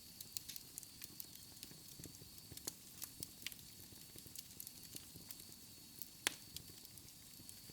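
Wood fire crackling in a fireplace: irregular sharp pops and snaps over a soft low hiss of the flames, with the loudest pop about six seconds in.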